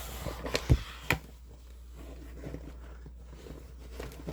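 Handling noise from a cross-stitch piece in its frame: two sharp taps or clicks about a second in, then faint rustling, over a low steady hum.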